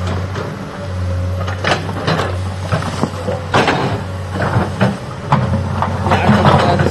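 Excavator's diesel engine running steadily while digging, with irregular knocks and scrapes of the bucket against rock and soil.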